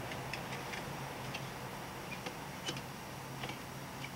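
Light, irregular clicks and taps of exhaust parts being handled and fitted together, a few a second, over a steady low hum.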